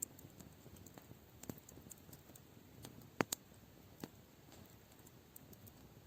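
Campfire crackling: sparse, irregular sharp pops of burning wood over a low, steady hiss, with the loudest pair of pops a little past the middle.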